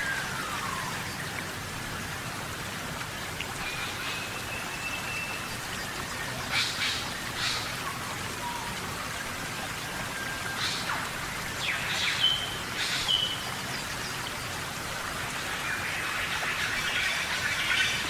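Steady rainforest rain falling on foliage. Over it come a few short whistled bird notes, a falling whistle at the very start and several sharp ticks, with denser chirping building near the end.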